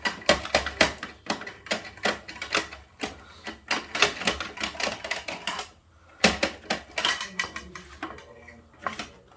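Hard plastic clicking and clacking in quick, irregular runs from Bruder toy garbage trucks being worked by hand, with a short pause about two-thirds of the way through.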